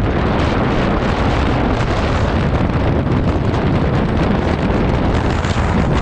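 Heavy wind buffeting the microphone of a moving scooter, a steady loud rumble and rush with no distinct engine note showing through.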